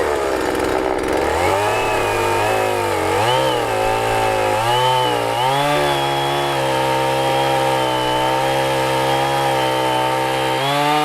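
Two-stroke chainsaw cutting through a thick apple-tree branch. The engine speed dips and recovers several times as the chain bites, then holds high and steady, and dips again near the end.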